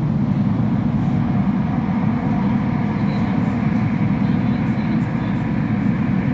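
Steady running noise heard inside a Bombardier Class 345 electric train in a tunnel: a low, even rumble with a faint steady whine above it.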